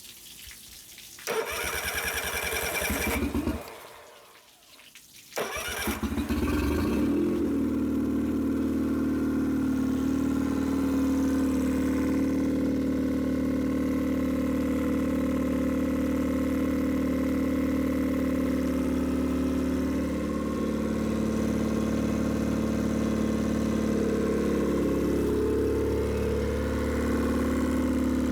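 Nissan 15 hp four-stroke outboard being started: a couple of seconds of noisy start-up, a short lull, then the engine catches about five to six seconds in, rises in pitch briefly and settles into a steady idle.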